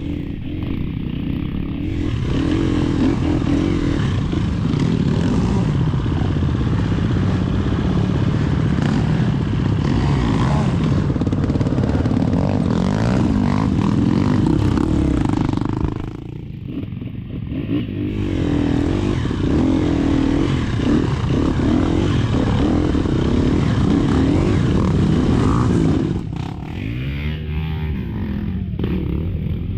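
Off-road motorcycle engine running hard, its pitch rising and falling as the throttle opens and closes. The engine drops back briefly twice, about halfway through and again near the end, then climbs again.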